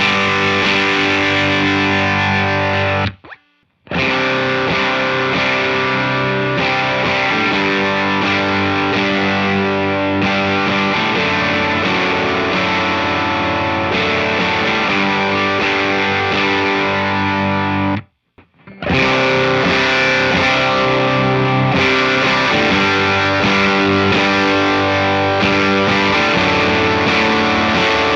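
Overdriven electric guitar playing riffs through a JHS Kilt overdrive pedal with its G2 gain switch on, into a Walrus Audio ACS1 amp simulator. The playing stops twice for under a second, about 3 s in and about 18 s in, where one demo clip gives way to the next.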